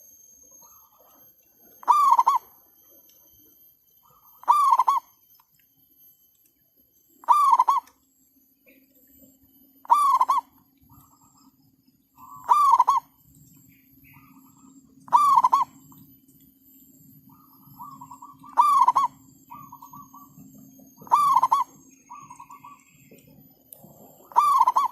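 A bird repeats one short call about every two and a half seconds, with fainter answering calls in the gaps from about halfway through. A low steady hum comes in about seven seconds in.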